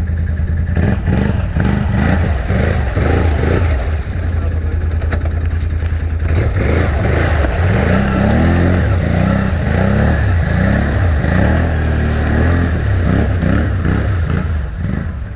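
ATV engine running under load, its revs rising and falling repeatedly from about six seconds in.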